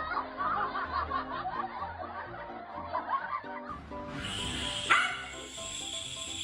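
Background music with people snickering and laughing, then after a cut a dog gives a single sharp bark near the end.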